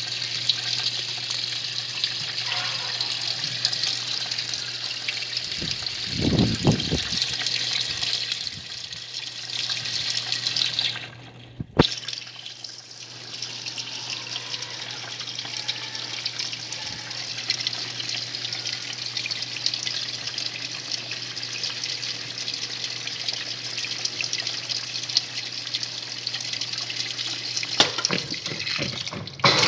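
A 'faz tudo' washing machine running, water churning in its tub over a steady motor hum. About eleven seconds in the sound drops briefly and there is a sharp click, then the churning picks up again.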